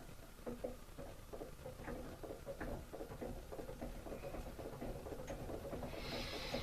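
A small homemade magnet motor's rotor spinning, giving off a fast, irregular light clicking and rattling from its moving parts. A hiss comes in near the end.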